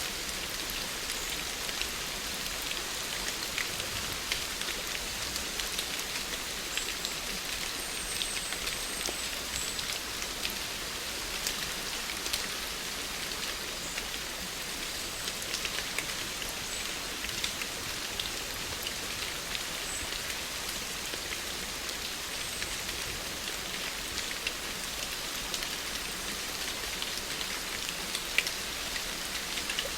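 Steady rain falling, with many small individual drop ticks over an even hiss.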